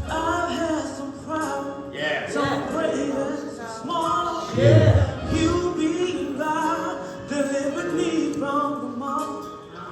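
Gospel-style church music: voices singing over instrumental accompaniment.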